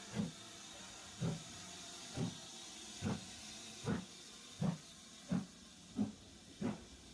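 Steam locomotive getting under way: nine exhaust chuffs that quicken from about one a second to nearly two a second, over a steady hiss of steam.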